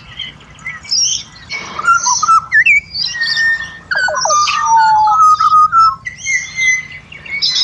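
Pied butcherbirds singing: clear, sustained fluted notes and sliding glides, several birds overlapping, with busier higher-pitched calls mixed in.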